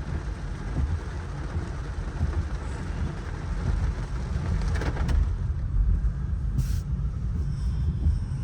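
Low, steady rumble of a car driving slowly, with two brief clicks about five and six and a half seconds in.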